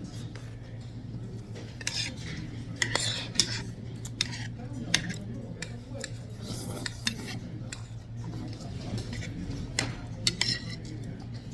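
Spoon and chopsticks clinking and scraping against bowls during a meal of stew, with sharp clinks at irregular intervals over a steady low hum.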